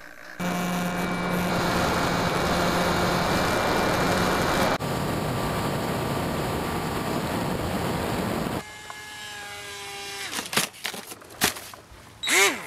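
Remote-control models running in three short clips cut hard one after another: a steady motor whine, then a higher steady whine, then a quieter stretch where a model's whine sweeps down and back up in pitch as it passes, twice near the end.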